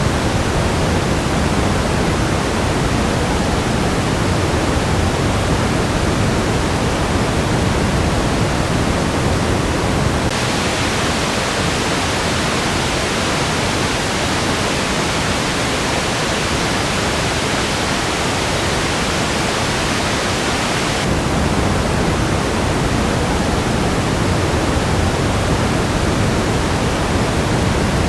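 Steady band-limited test noise for mix referencing, with no tones or events in it. About a third of the way in it switches abruptly to a brighter, hissier noise with less bass, and about three quarters of the way through it switches back to the darker, pink-noise-like sound.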